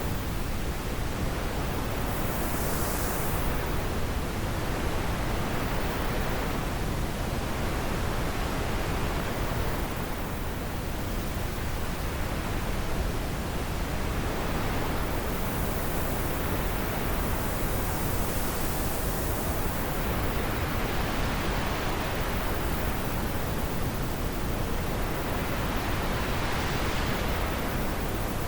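Wind blowing in a steady, even hiss, with gusts swelling and easing a few times.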